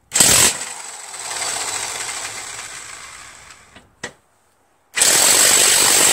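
Half-inch electric impact wrench hammering on a stuck engine mounting bolt under a push-mower deck. It runs in two goes: a loud start that trails off, a short blip about four seconds in, then a second full run starting about a second later.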